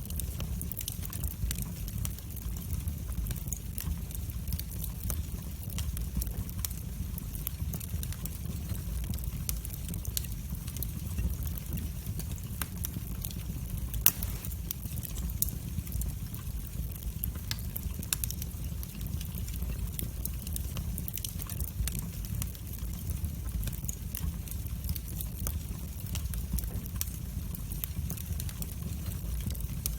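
Wood fire burning in a fireplace: a steady low rumble of flame with frequent small crackles and pops, and one sharper pop about halfway through.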